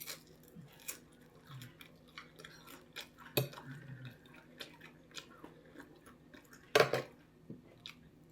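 A person chewing enchiladas close to the microphone, with soft mouth sounds and scattered small clicks. There is a sharper clink about three and a half seconds in and a louder clatter near seven seconds, typical of a fork against the plate.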